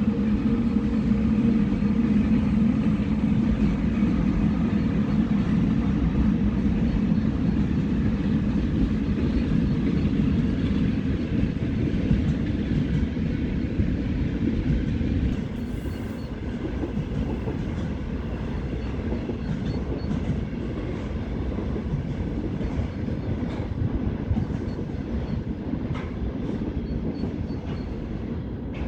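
Electric freight train passing, the 3ES6 locomotive hauling a container train. The locomotive's steady hum runs over a low rumble; about halfway through the hum gives way to the wagons rolling by, with scattered wheel clicks over the rail joints.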